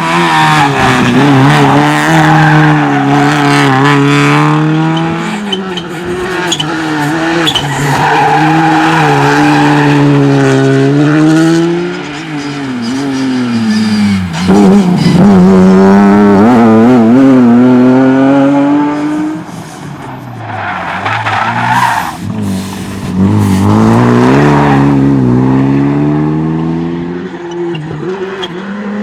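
Rally car engines at full throttle, the note climbing and dropping again and again through gear changes and lifts for corners.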